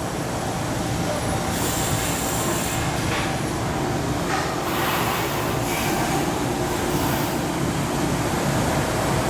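Steady shipyard machinery rumble, with several short bursts of high hissing over it.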